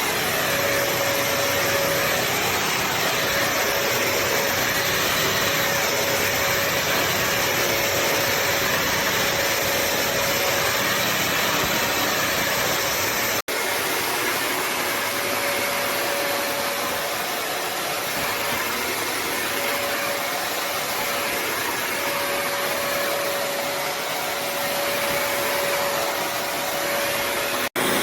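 Bissell CrossWave HydroSteam wet-dry vacuum running steadily, a dense motor-and-suction rush with a faint held whine. The sound cuts out for an instant about halfway through and again near the end.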